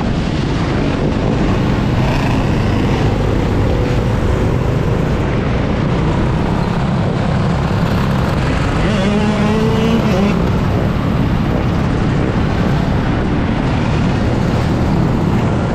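Steady, loud road and traffic noise from riding through city streets on a Sur-Ron electric dirt bike, with a short wavering tone about two-thirds of the way through.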